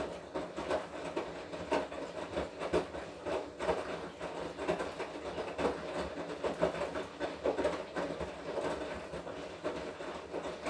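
Washing machine drum turning during the wash cycle, with laundry and water tumbling and clattering over a steady motor hum. It runs for one stretch of about twelve seconds and stops just after the end.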